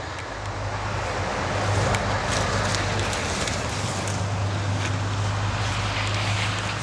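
A motor vehicle driving past: a steady low engine hum under a rushing noise that swells over the first two seconds, holds, and fades near the end.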